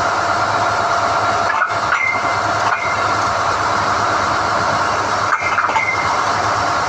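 SDH-1600 core drilling rig running steadily during the hoisting of NQ drill rods, a loud continuous machine noise with a held tone. Short metallic clinks with a brief ring come about a second and a half in, around two and three seconds in, and twice around five and a half seconds in.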